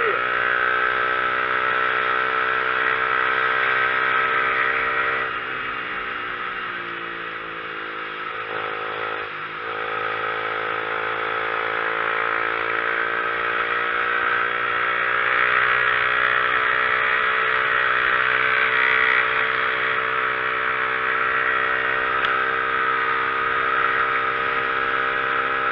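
Motorcycle engine running steadily under way on a climbing road, with a steady hiss over it. The engine eases off about five seconds in, its note falling, then picks up again and rises back to a steady pull.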